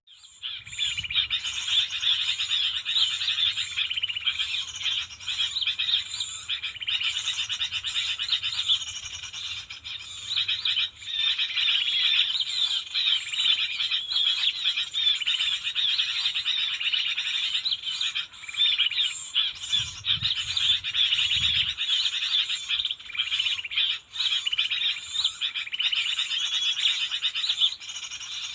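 A dense, continuous chorus of high-pitched chirps and trills that starts suddenly and runs on without a break. A brief low rumble comes about 20 seconds in.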